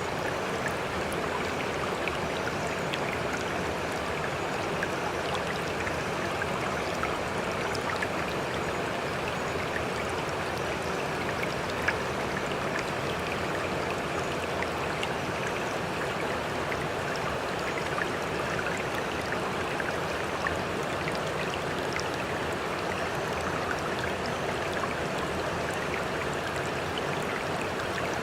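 Sea water rushing and lapping steadily, with many small splashing ticks scattered through it.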